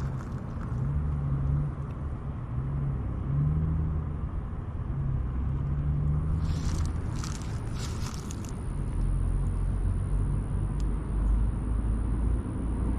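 A steady low rumble, with a few seconds of scratchy rustling about halfway through.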